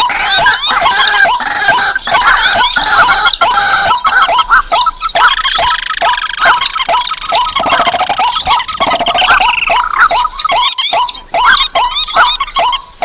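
A lure recording of rice-field and marsh birds (rails, crakes and waterhens) calling together. Short, sharp calls repeat several times a second, and higher calls overlap them.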